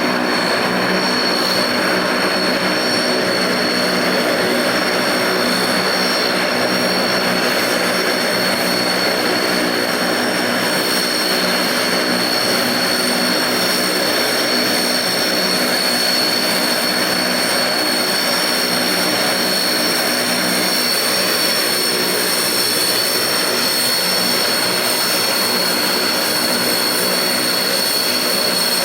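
Ilyushin Il-18's four Ivchenko AI-20 turboprop engines running steadily: a loud, even propeller drone with a constant high turbine whine over it.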